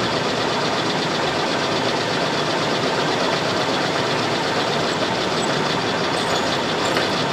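Machine tool running steadily while drilling holes in a small metal part.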